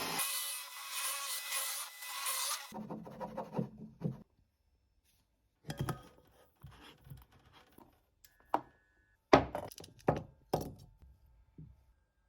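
Woodworking on a wooden piece: about three seconds of steady scraping on wood that stops abruptly, then a string of separate wooden knocks and taps, the loudest a sharp knock about nine and a half seconds in.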